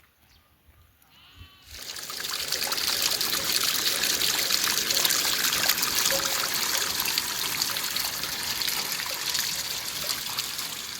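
Water running steadily, starting abruptly about two seconds in and easing off slightly near the end.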